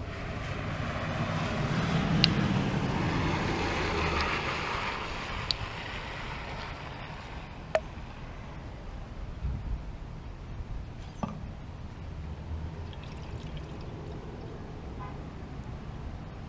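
Seafoam being poured, a trickling pour that swells for a few seconds and then fades, followed by a few small clicks and knocks, over a steady low rumble.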